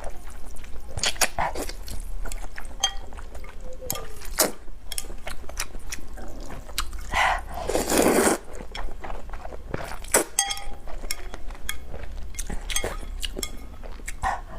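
Close-miked eating sounds: chewing with wet mouth clicks and crackles, and a louder, longer noisy burst about eight seconds in.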